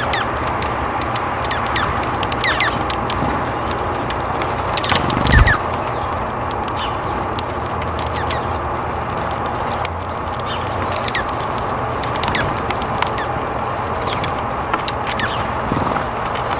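Outdoor ambience of wild birds calling: scattered short chirps and calls over a steady background hiss, with a brief low thump about five seconds in.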